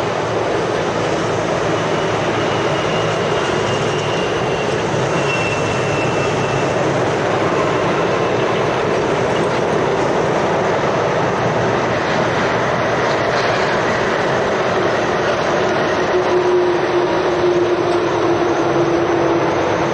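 Heavy road traffic: lorries passing, with a steady rumble of tyres and diesel engines. A faint whine rises over it early on, and a low tone near the end.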